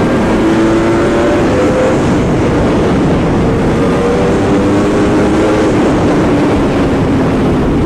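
Yamaha R1M's crossplane inline-four engine with an aftermarket titanium exhaust pulling hard under acceleration on the road, its engine note shifting slowly in pitch under heavy wind rush.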